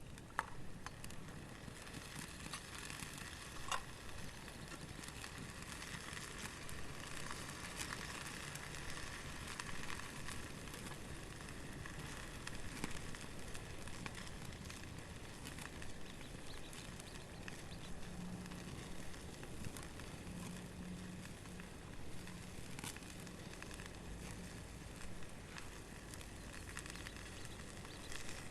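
Small wood campfire burning with a steady hiss and a few sharp crackling pops.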